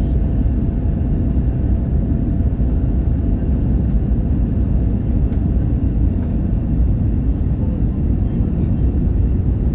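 Steady cabin noise inside an Airbus A321-111: a low rumble of airflow and its CFM56 engines, with a faint steady whine above it.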